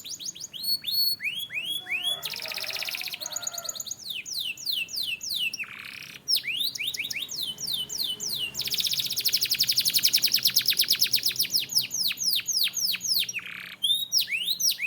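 Domestic canary singing a continuous song: runs of repeated fast down-slurred whistled notes, a short buzzy roll early on the way, and a long, very rapid trill through the middle before the slurred notes return.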